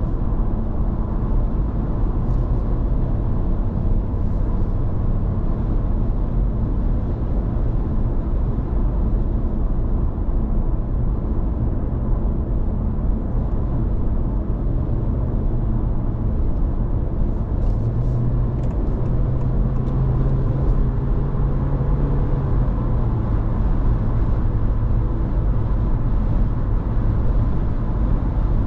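Steady road and tyre noise heard inside a Honda ZR-V's cabin at driving speed. A low hum grows stronger for a few seconds past the middle, then settles back.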